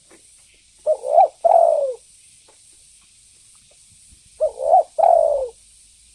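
Spotted dove (tekukur) cooing: two phrases about three and a half seconds apart. Each phrase is a short note, a rising-and-falling note, then a longer coo that falls in pitch.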